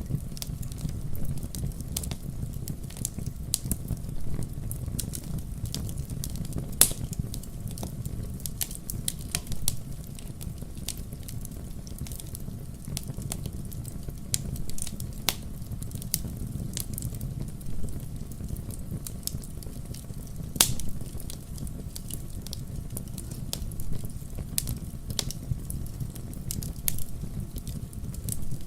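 Wood fire burning in a fireplace: a steady low rumble of flames with frequent irregular crackles and pops from the burning logs, a few sharper pops standing out, one about seven seconds in and another around twenty seconds.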